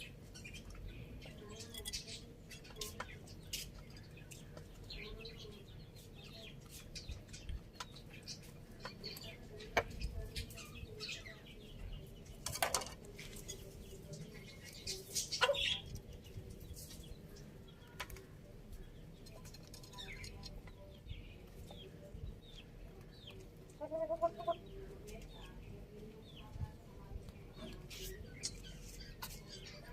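Domestic chickens pecking at feed: many quick, sharp taps scattered throughout, with a few soft clucks and a short run of clucking about 24 seconds in.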